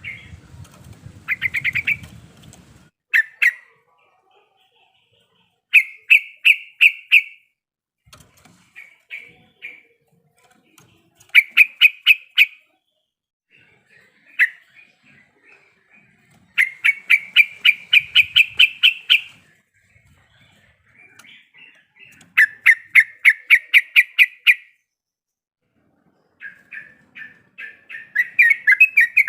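Yellow-vented bulbul (trucuk) singing in repeated bouts of quick, evenly spaced chattering notes, about five a second. Each bout lasts a second or two, with short pauses between them.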